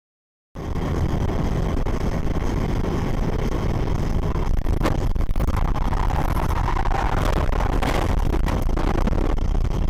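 Road and engine noise of a moving car, heard from inside the car, cutting in suddenly about half a second in, with a few brief knocks around the middle.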